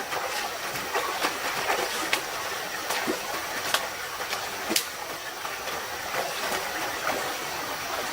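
A stream running steadily, with sharp knocks roughly once a second through the first five seconds.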